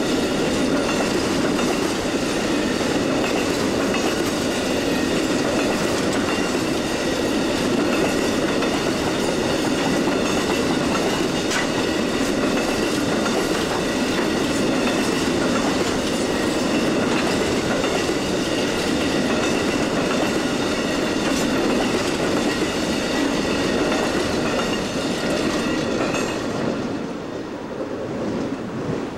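Enclosed auto-rack cars of Amtrak's Auto Train rolling past: a steady rumble of wheels on rail, with faint regular clicks and thin high ringing tones over it. The sound dies away over the last few seconds as the end of the train passes.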